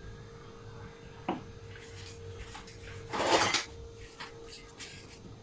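Metal utensil clinking and scraping against a dish while cream is spread on a cake layer: a sharp click about a second in, a louder scrape about three seconds in, and a few light clicks near the end.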